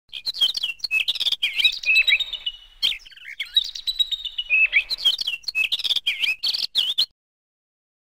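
Birds chirping and twittering in rapid, sharp calls, cutting off suddenly about seven seconds in.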